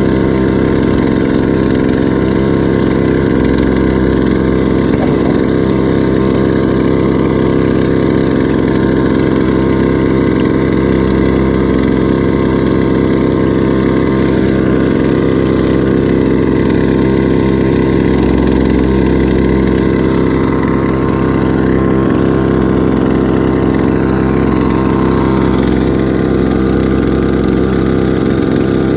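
Small 2 hp outboard motor running steadily at trolling speed, its pitch holding nearly constant.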